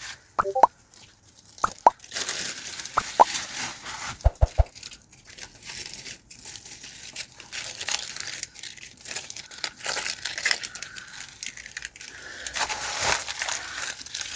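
Rustling and crinkling of handled material, with a few short, sharp knocks in the first five seconds.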